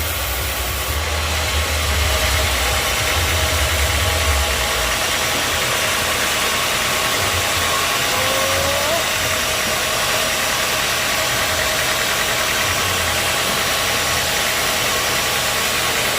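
Sawmill machinery running steadily, a dense mechanical noise with a steady whine. A low rumble drops away about four seconds in.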